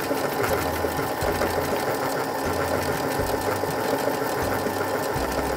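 Brother NQ470L computerized sewing machine sewing lettering onto denim: the motor runs steadily under a fast, even clatter of needle strokes.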